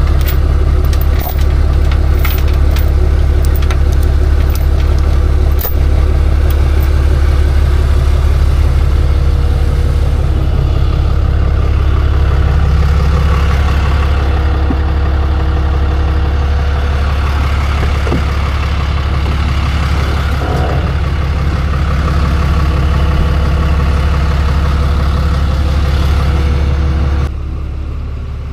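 A truck engine running steadily with a strong low drone; the sound drops abruptly in level near the end.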